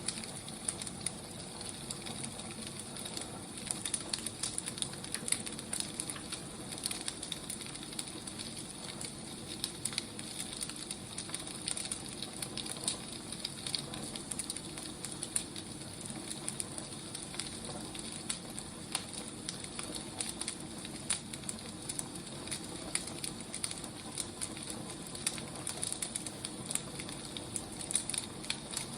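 Wood fire crackling: a steady hiss with many small, irregular pops.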